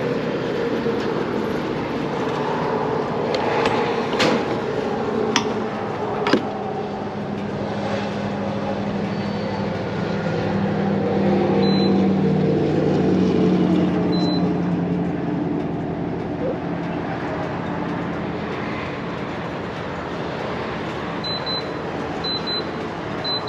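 Gas-station forecourt noise: a vehicle engine running with traffic hum, a few sharp clicks, and short high electronic beeps from the fuel pump's card reader and keypad, coming several times near the end.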